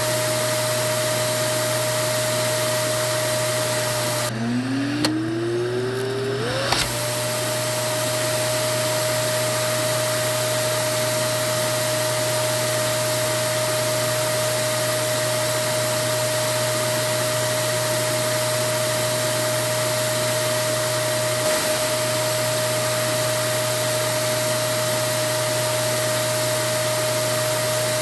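Vacuum cleaner motor running steadily with a high whine over a rushing hiss. About four seconds in, the motor dips: its whine drops low, then climbs back up to full speed over about two and a half seconds.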